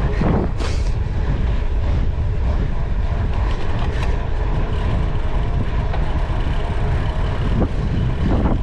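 Wind rumbling on the microphone with the steady rattle of a cyclocross bike ridden hard over rough grass.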